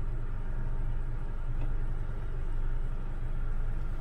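Honda Civic idling, a steady low rumble heard inside the cabin.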